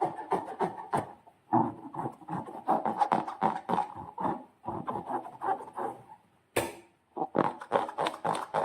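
Slime squelching as it is squeezed and worked by hand: a fast, irregular run of wet squishes and crackles with a few short breaks, and one sharper burst about two-thirds of the way through.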